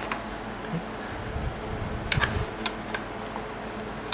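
A few light clicks and taps from small plastic kit parts being handled, with a cluster of clicks about halfway through, over a faint steady hum.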